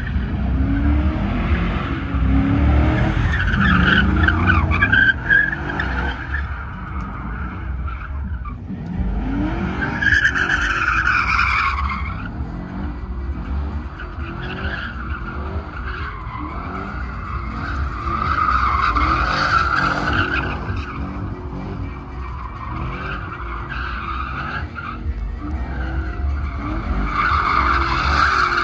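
A truck doing a burnout: the engine runs hard with a wavering pitch while the spinning tyres squeal. The squeal swells and fades in waves, loudest at about 4, 11, 19 and 28 seconds in.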